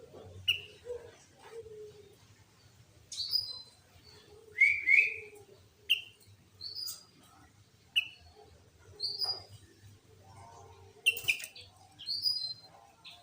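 Sooty-headed bulbuls calling: short, sharp whistled notes about once a second, some sliding upward, loudest about four to five seconds in.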